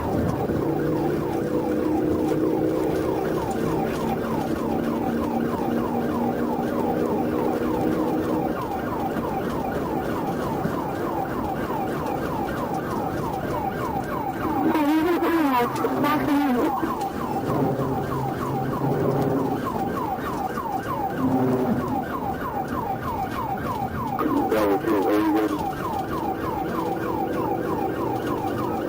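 Police siren yelping rapidly, its pitch sweeping about three times a second, over vehicle running noise, with two louder swells about halfway through and again near the end.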